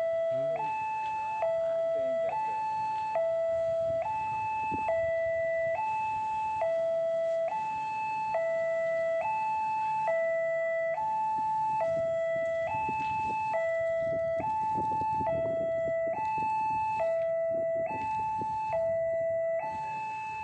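Railway level-crossing warning alarm sounding a steady two-tone electronic signal, alternating low and high about every 0.8 s, the signal that a train is approaching. Road traffic rumbles underneath, louder in the second half.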